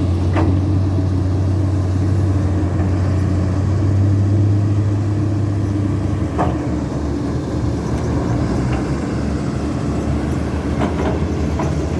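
Heavy diesel engine running steadily with a low drone that eases about six seconds in, with a few short knocks.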